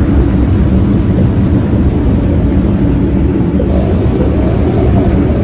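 Sonified recording of planet Earth's electromagnetic emissions, converted into audible sound: a steady, deep noise, with faint wavering tones in the second half.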